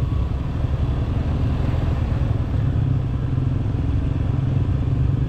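Motorcycle engine running steadily under way, a low, even drone with road and wind noise.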